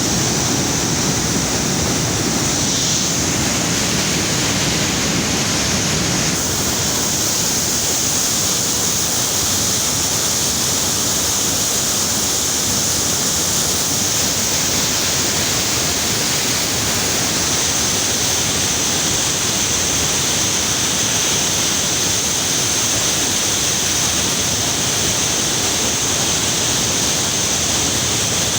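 Jhelum River water rushing through the gates of Rasul Barrage, a loud, steady, unbroken rush.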